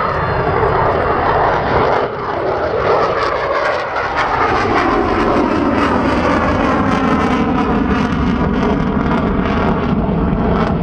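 Boeing F/A-18E/F Super Hornet's twin General Electric F414 jet engines roaring loudly in a display pass, with a whining tone that slides down in pitch about midway as the jet goes by.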